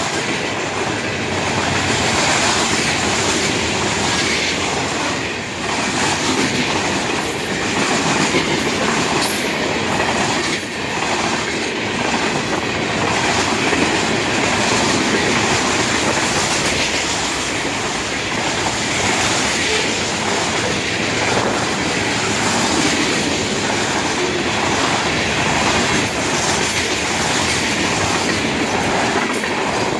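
Long freight train's cars rolling past close by: a steady rumble of steel wheels on rail, with a running clickety-clack as the wheels cross rail joints.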